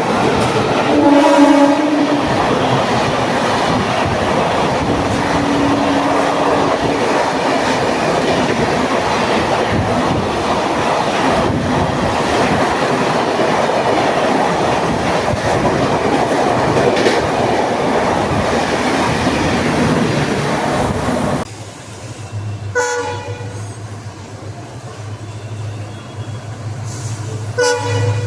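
Express train passing at high speed: a horn blast about a second in, then a long, loud, steady rush of wheels on rails that cuts off suddenly after about twenty seconds. After that it is quieter, with a low hum and two short horn sounds.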